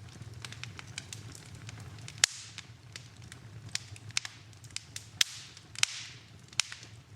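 Wood fire in a fireplace crackling over a steady low rumble, with sharp pops at irregular intervals. The loudest pops come about two seconds in and about five seconds in, and a short hiss follows near six seconds.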